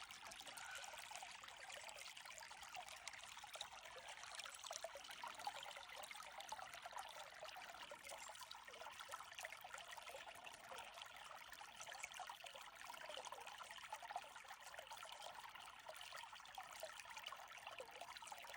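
Faint, steady trickle of running water, as of a small stream.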